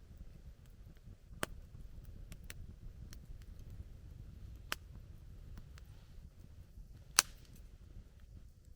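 Wood campfire crackling: a handful of sharp, scattered pops from the burning wood, the loudest about seven seconds in, over a low steady rumble.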